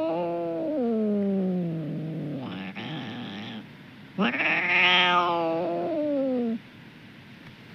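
A domestic cat yowling: two long drawn-out calls that fall in pitch, with a short noisy sound between them.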